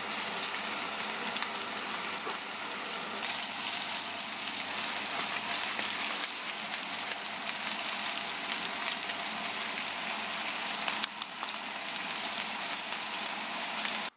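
Shell-on shrimp and garlic frying in hot vegetable oil in a stainless steel pan: a steady sizzle with fine crackles and pops, cutting off abruptly at the end.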